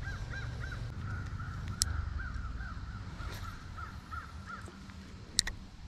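A bird calling in a rapid series of short rising-and-falling notes, about four or five a second, fading out near the end. Two sharp clicks cut in about two seconds in and again just before the end.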